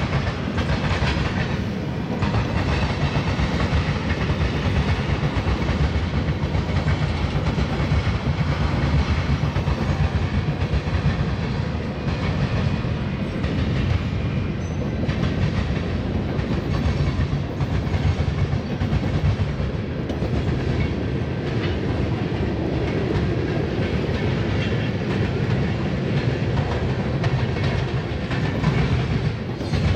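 Freight train cars rolling steadily past, their wheels clattering over a railroad diamond crossing in a continuous run of rapid clicks over a low rumble.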